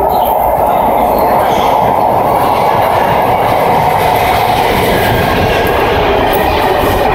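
MARTA rail train at the station platform: a loud, steady rumble of rail noise.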